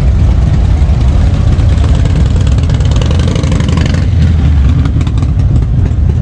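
Several motorcycle engines running and revving together, loud and continuous.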